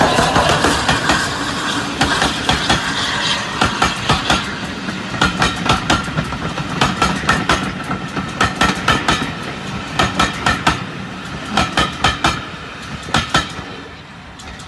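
Passenger train hauled by LNER A3 steam locomotive 60103 Flying Scotsman rolling past close by. The tender and then the coaches go by, their wheels clattering over the rail joints in repeated quick clusters of clicks. The sound fades as the last coach passes near the end.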